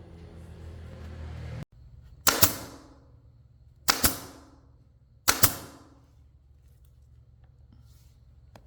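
A steady humming motor sound that cuts off abruptly, followed by three sharp bangs about a second and a half apart, each ringing out briefly.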